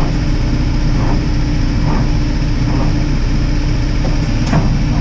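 Old Cummins diesel engine in a dump truck being turned over by its starter on a cold start with starting fluid in the intake: a steady cranking drone with uneven pulses, and the engine does not catch.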